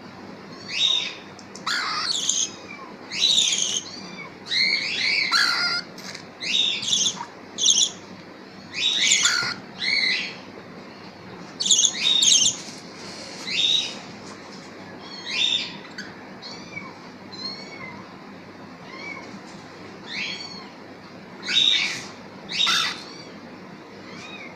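Parrot chicks giving repeated high-pitched begging calls, roughly one a second, sparser in the later part. These are hungry chicks calling to be fed.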